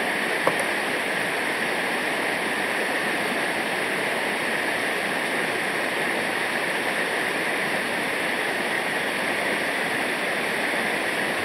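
Steady rush of river water over rapids, an even unbroken hiss, with one brief click about half a second in.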